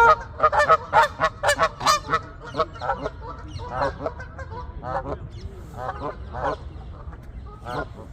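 A flock of birds calling: many quick, overlapping calls in the first two seconds, then fewer, spaced-out calls.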